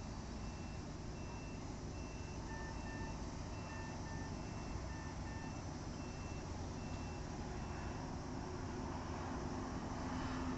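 Warning beepers on heavy construction machinery over a steady low engine rumble. A high beep repeats a little more than once a second, and a lower beep sounds in pairs for a few seconds in the middle. The high beeps stop near the end as a louder vehicle rumble builds.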